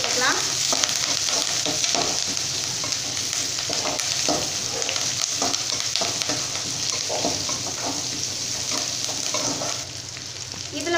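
Shallots, curry leaves and dried red chillies sizzling in hot oil in a metal kadai, with a metal spoon scraping and clicking against the pan as they are stirred. The stirring stops and the sizzle eases a little near the end.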